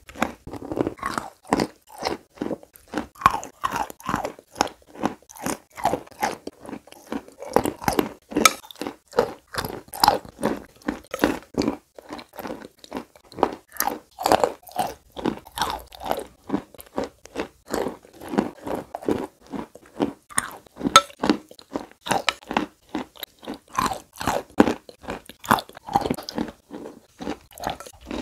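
Close-miked chewing and crunching of chalk: a steady run of crisp crunches, several a second.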